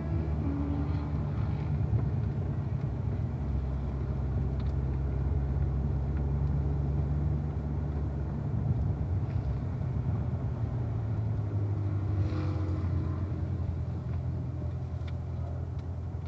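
Corvette engine running at low revs with a steady low rumble; its note drops a little about twelve seconds in.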